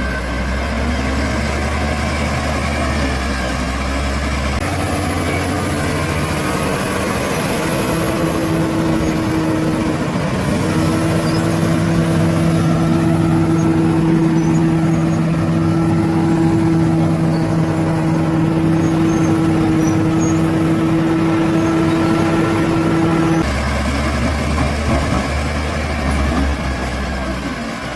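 Bulldozer's heavy diesel engine running steadily with a constant drone. Its character changes abruptly about five seconds in, becoming a steadier, more tonal hum, and changes back near the end.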